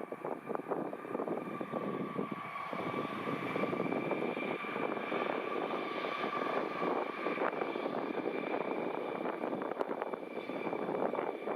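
Embraer 170 airliner's turbofan jet engines running with a steady whine, under gusty wind buffeting the microphone.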